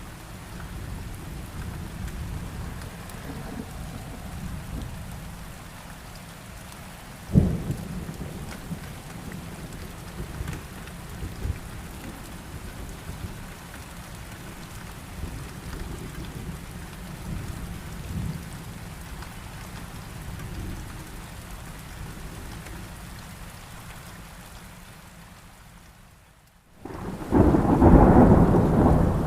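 Steady rain with low rumbling thunder, and a sharp thunderclap about a quarter of the way in. The sound fades and briefly drops out near the end, then returns as a much louder burst of heavy rain and thunder.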